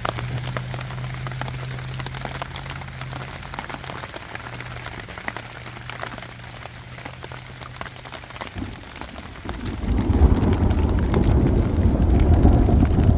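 Rain falling in a thunderstorm, a steady hiss dotted with many small drop ticks. About ten seconds in, a loud low rumbling sets in and grows louder than the rain.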